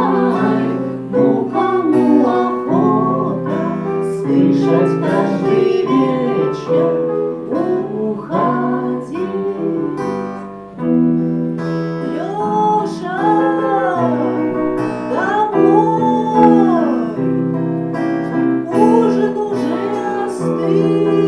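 A lullaby performed live: acoustic guitar chords with a sung melody over them.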